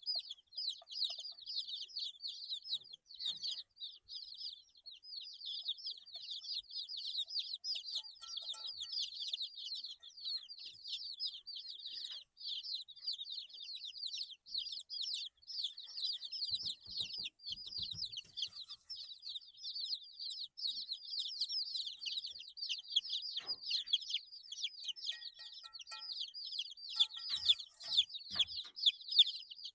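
A brood of 8-day-old chicks peeping without pause, many short, high, falling notes overlapping. There are a few light knocks about halfway through and near the end.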